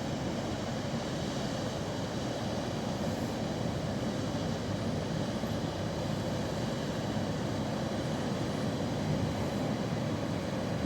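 A ship under way: a steady, even rumble of engine and water noise, with faint steady hum tones over it.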